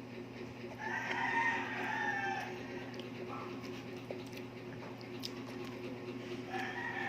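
A rooster crowing twice: one long call about a second in, and another starting near the end, over a steady low hum.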